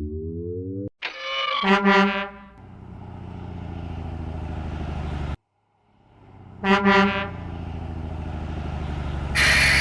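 Truck sound effects: a short rising tone, then a horn honk followed by an engine running and growing louder for a few seconds. The honk and engine repeat, and a burst of hiss comes near the end.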